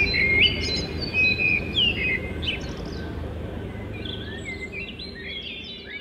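Several songbirds chirping and whistling, their short calls overlapping, over a steady low background noise; the calls are busiest in the first few seconds, thin out, then pick up again near the end.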